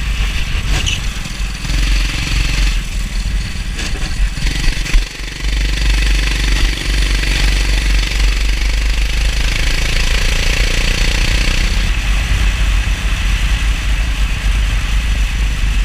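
Go-kart engine running under a steady hiss, dipping briefly about five seconds in before running on.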